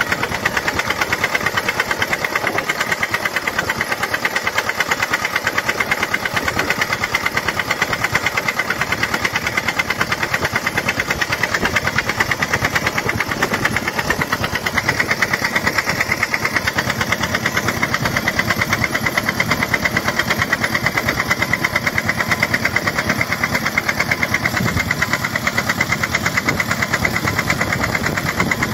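Homemade tractor's engine running steadily with a fast, even pulsing beat.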